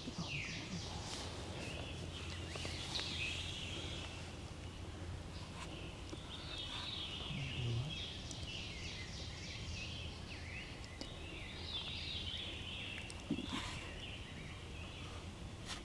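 Several small songbirds singing and chirping, their short high calls overlapping throughout. One sharp click sounds about thirteen seconds in.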